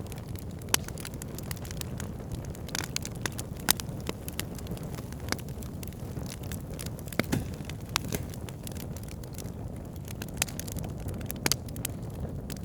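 Wood campfire burning: a steady low rush of flames with scattered sharp crackles and pops of the burning wood, one louder pop a few seconds in.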